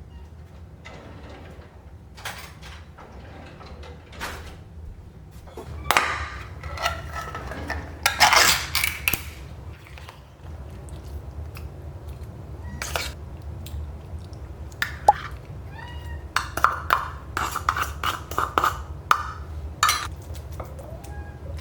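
Dishes and utensils clinking and rattling while cat food is prepared. The clinks come scattered, with a dense rattle about eight seconds in and a quick run of clinks near the end, over a steady low hum.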